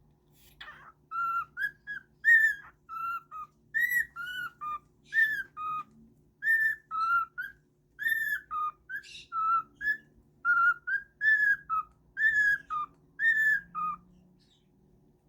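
Pet bird whistling a tune: a long string of short, arched whistled notes in phrases with brief pauses, starting about a second in.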